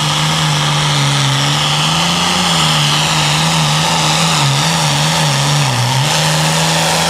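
Ford pro farm pulling tractor's diesel engine running hard at high revs down the track. Its engine speed sags and recovers several times under the load of the sled.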